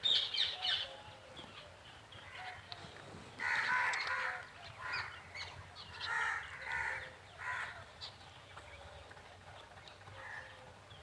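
Birds calling in short runs of harsh calls, several times over, with fainter chirps in between.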